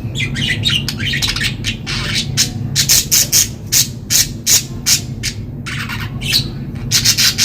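Budgerigars chirping and squawking in a rapid run of short, sharp calls, busiest in the middle and again near the end, over a steady low hum.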